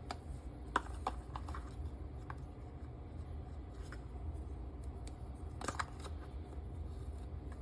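A few light clicks and taps of a measuring spoon and spice containers as dry batter ingredients are measured out, a cluster of them about a second in and another near six seconds, over a low steady hum.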